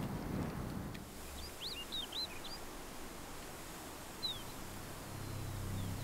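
Short, high bird chirps: a quick run of about five about one and a half seconds in, then a single falling chirp a little after four seconds, over faint outdoor background noise.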